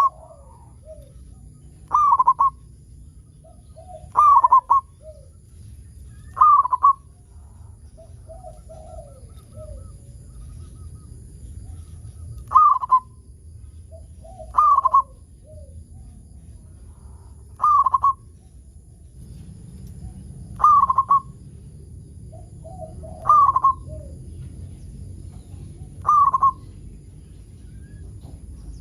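Zebra dove (perkutut) cooing: a short, clipped cooing phrase repeated every two to three seconds, about ten times. Some phrases trail into softer, lower coos, and there is a pause of several seconds in the middle with only soft low coos.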